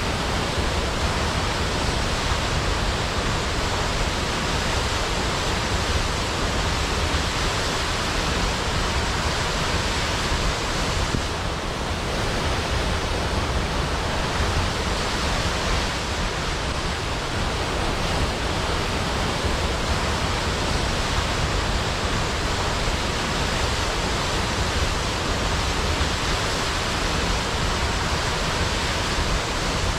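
Waterfall: heavy water falling and crashing into a pool below, a steady even rush with deep rumble and hiss.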